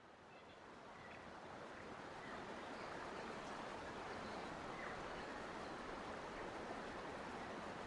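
Steady rushing of flowing stream water, fading in over the first couple of seconds, with a few faint bird chirps.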